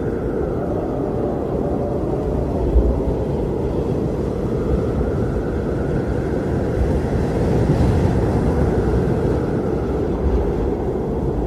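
Strong blizzard wind blowing steadily with a deep low rush, and a faint higher howl that swells and fades as it gusts.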